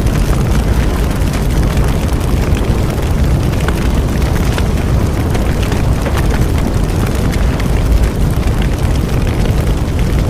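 Bonfire burning, with a steady low rumble and frequent small crackles and pops from the burning wood.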